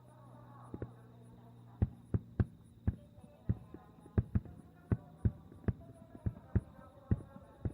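Aerial fireworks shells bursting in a rapid, irregular series of booms, roughly two a second, starting about two seconds in.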